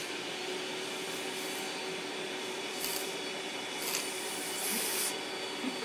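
Vacuum cleaner running steadily with a steady hum, held close to an opened laptop, with three short bursts of rushing air in the second half as the airflow at the nozzle changes.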